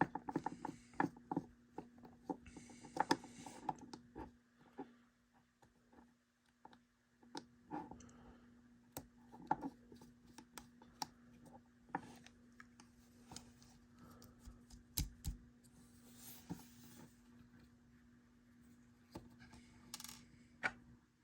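Small clicks, taps and scrapes of a screwdriver and small parts being worked on an HO scale model railcar's motor unit while its screws are taken out, busiest in the first few seconds and then scattered. A faint steady hum runs underneath.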